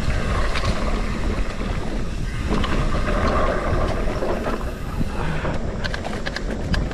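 Mountain bike descending a dirt trail: wind buffeting the microphone over a steady rumble of tyres and bike, with a run of sharp rattles and clicks near the end.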